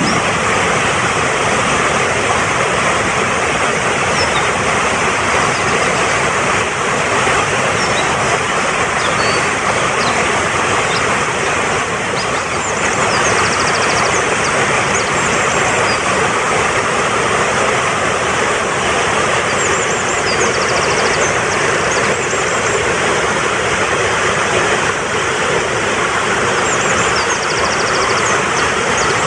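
Fast-flowing mountain stream rushing steadily over rocks, with small birds giving short high-pitched trills above it several times.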